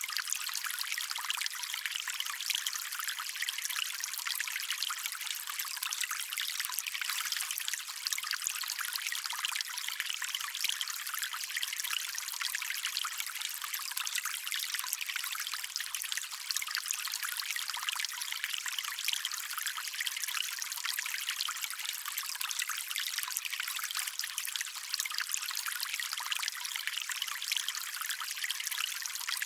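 Shallow stream water trickling and babbling steadily, a bright splashing hiss with almost no low rumble.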